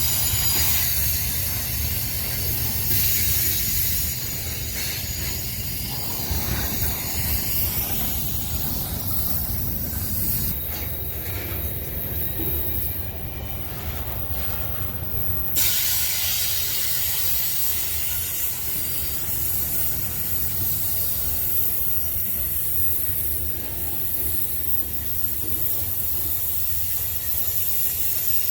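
Freight cars of a heavy BNSF manifest train rolling past on the grade: a steady low rumble of wheels on rail with a hiss and thin high-pitched wheel squeals.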